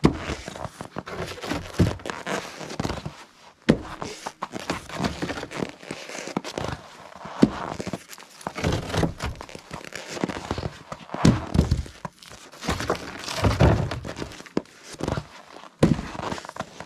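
Firewood being unloaded by hand: irregular thunks and clatter as pieces of wood are dropped and knock against each other, with footsteps between them.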